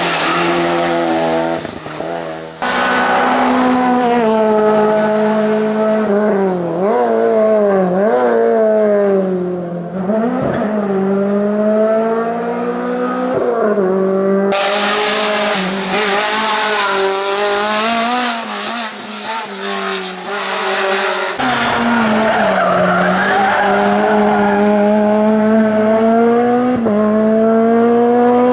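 Race car engines at high revs on a hillclimb, the pitch climbing and dropping again and again as the cars accelerate, shift gears and brake for corners, in several abruptly joined clips.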